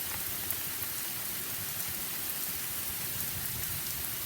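Heavy rain falling hard, a steady even hiss with scattered drop ticks.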